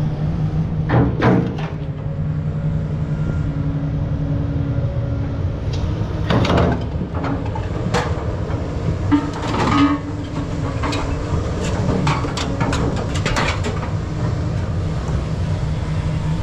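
An engine runs steadily with a low hum while scrap metal is handled, giving scattered sharp metallic clanks and knocks, in a loose cluster in the second half.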